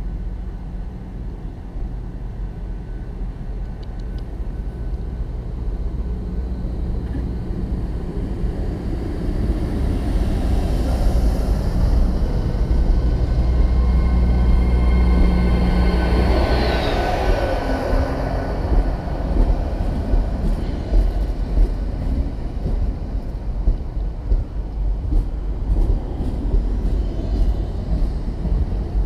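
GWR Hitachi Intercity Express Train pulling into the platform. Its running hum builds to a peak about halfway through, with steady whining tones and a high whine that falls in pitch as the front end passes. The coaches then roll slowly by with repeated short knocks of the wheels.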